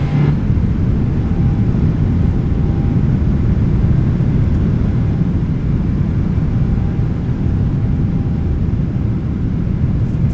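Steady low rumble of a Boeing 777-300ER's GE90 engines and airflow heard inside the passenger cabin.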